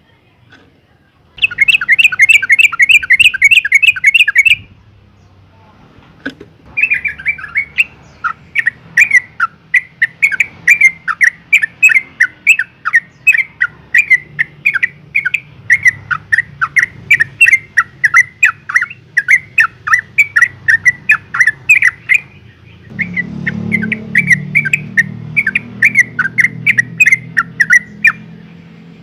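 Yellow-vented bulbul giving rapid runs of sharp, chattering call notes, about three a second, in three bouts with short pauses between. It is a female's call used as a lure to provoke male bulbuls into calling.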